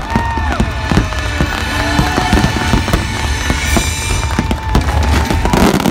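Aerial fireworks going off in rapid bangs and crackles over loud show music with held notes. A dense flurry of explosions comes near the end.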